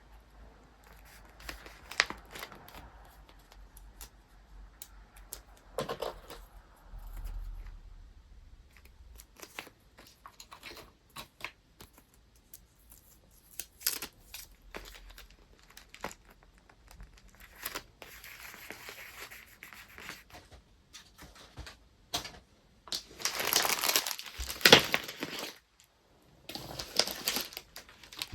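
Paper and wrapping materials being handled while packing a parcel: scattered light taps and short rustles, then louder stretches of paper crinkling and tearing about two thirds of the way in and again near the end.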